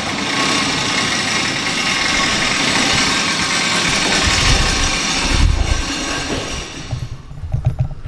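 Metal roller shutter door rolling open, a loud continuous rattle that dies away about seven seconds in.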